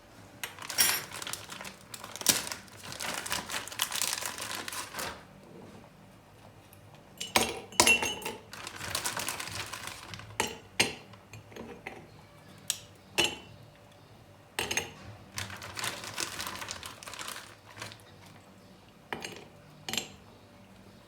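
Glassware and cutlery being handled: sharp clinks and knocks, with three longer stretches of noisy clatter in between.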